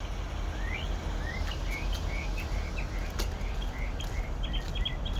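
A bird chirping in a quick series of short notes, some rising, over a steady low rumble, with a few faint clicks.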